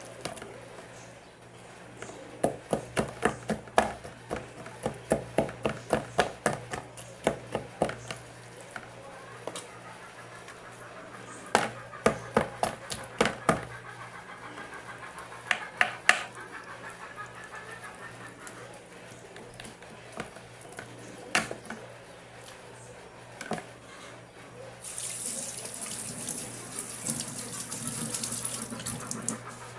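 Kitchen work sounds: two runs of quick, sharp knocks and clatters, then from about 25 seconds in, the hiss of water running from a tap into a sink.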